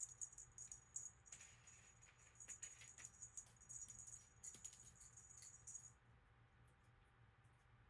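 Faint metallic jingling and rattling, with a steady high ring under it, that stops about six seconds in.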